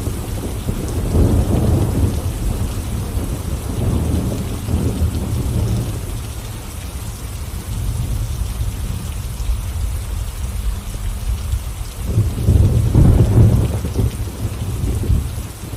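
Thunderstorm: steady rain hiss under rolling thunder, with deep rumbles swelling about a second in and a louder roll near the end.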